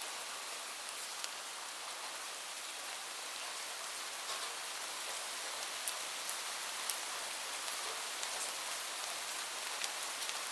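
Steady rain falling, a dense even hiss with scattered sharper drops landing close by.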